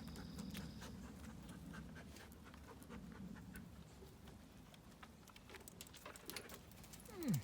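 A dog panting, faint, with scattered light ticks. Near the end a short vocal sound drops sharply in pitch and is the loudest moment.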